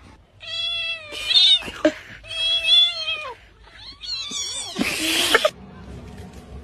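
A cat yowling: three long, drawn-out meows, the last one breaking into a harsh, rasping burst.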